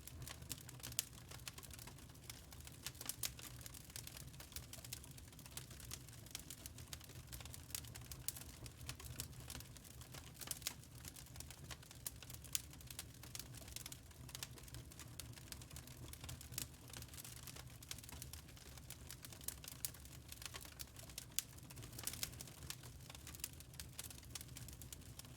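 Wood fire crackling in a fireplace: many irregular small pops and snaps over a low steady rumble.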